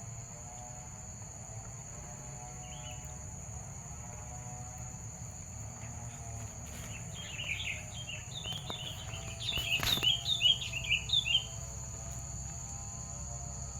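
Sooty-headed bulbul calling: a quick run of chattering notes from about seven seconds in to about eleven and a half, over a steady high insect drone.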